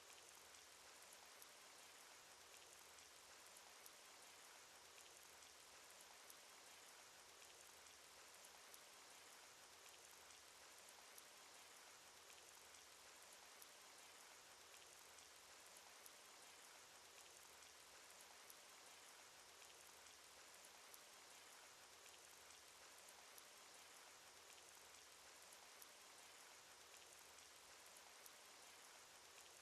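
Cartoon rain sound effect: a faint, steady hiss of rainfall with scattered small drop ticks, unchanging throughout.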